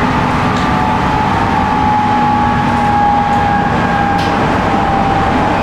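JR 719 series 5000-subseries electric train running at speed, heard on board. Its MT61 traction motors and gears give a steady whine over loud rolling rumble, with a few faint clicks.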